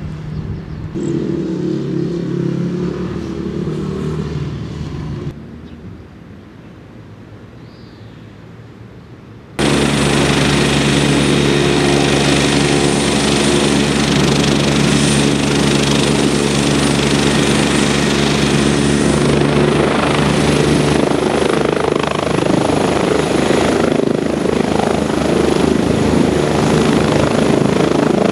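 Eurocopter EC145 helicopter with its twin turboshaft engines running, a steady rotor and engine sound with a thin high turbine whine. It is fainter for the first part, then jumps suddenly to loud and close about ten seconds in.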